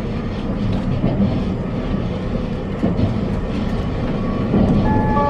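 Steady running noise of an electric express train heard from inside the passenger car: a low rumble with occasional faint rail clicks. Near the end, the train's onboard announcement chime starts, a melody of several clear notes.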